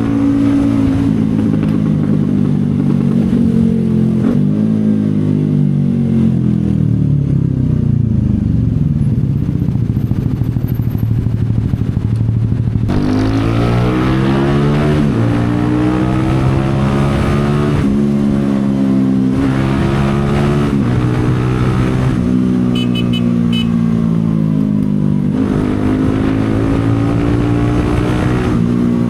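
CFMoto 250SR Lite's single-cylinder engine under way: the revs fall as the bike slows, run low for a few seconds, then climb sharply about halfway through, rising and dropping in steps through the gear changes. The revs ease off and pick up again near the end.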